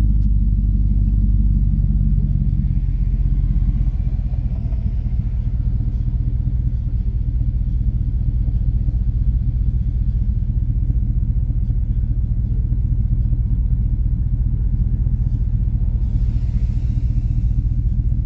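Car engine idling with a steady low rumble, heard from inside the cabin while the car stands still.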